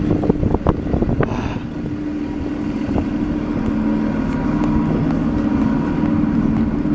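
A bus engine running steadily with a low hum, with a few sharp knocks and clicks in the first second or so.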